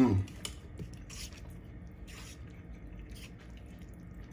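Close-up wet chewing and squishing of a mouthful of pasta, with a few faint, brief mouth sounds about a second apart. A louder short sound falling in pitch comes right at the start.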